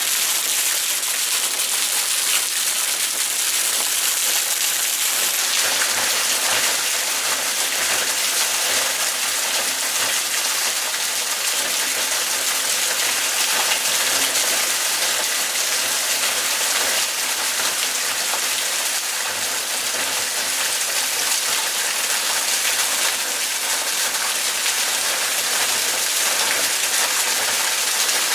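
Heavy downpour, a steady dense hiss of rain pouring down with no letup.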